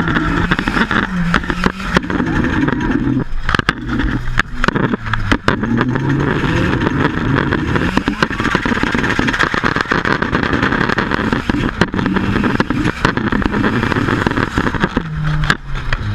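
Nissan 200SX S14's turbocharged four-cylinder engine heard from inside the cabin, its revs rising and falling again and again as the car is driven sideways in a drift. Frequent sharp knocks and clicks run over the engine note.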